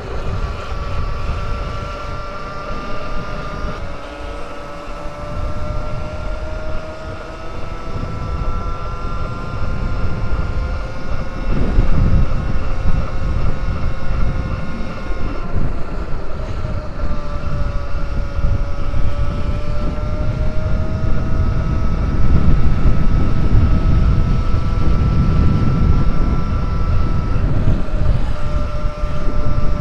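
Electric dirt bike's motor whining steadily while riding, its pitch drifting gently up and down with speed, over wind and tyre rumble on the microphone.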